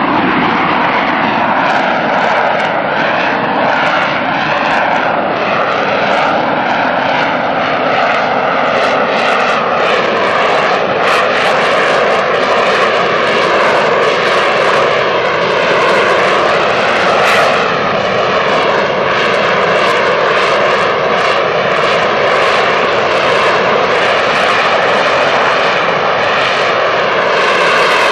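AV-8B Harrier II's Rolls-Royce Pegasus turbofan jet engine running loud and steady, a continuous roar whose tone slowly shifts up and down.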